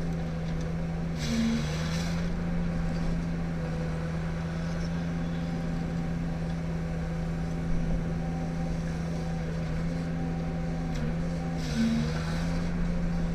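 Ponsse Ergo harvester's diesel engine running steadily. Twice, about a second in and near the end, there is a short hissing burst while the engine note dips briefly.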